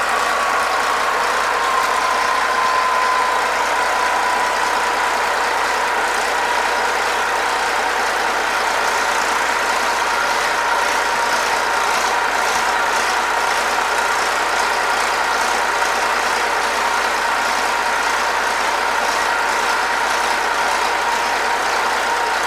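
Yanmar 6LAH-ST six-cylinder turbocharged marine diesel running steadily. A high whine falls in pitch over the first few seconds, then holds steady as the engine settles.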